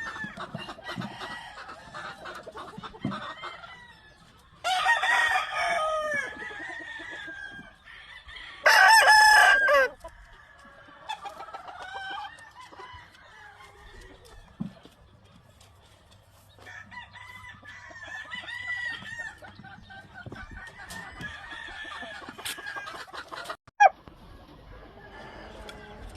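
Gamefowl roosters crowing and clucking, with two loud crows about 5 and 9 seconds in and quieter crowing and clucking between them. A sharp click sounds near the end.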